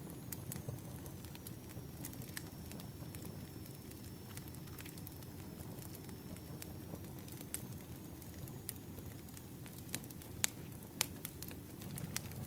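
Campfire burning with a steady low rumble and scattered sharp crackles and pops, a few louder pops near the end.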